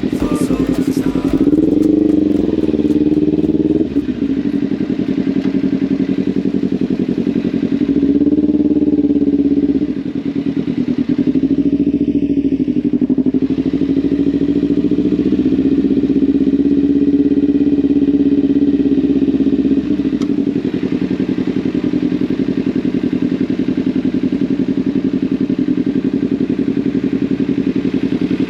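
Motorcycle engine running during a ride, rising in pitch twice with a brief drop after each rise, as when accelerating through the gears, then running steadily.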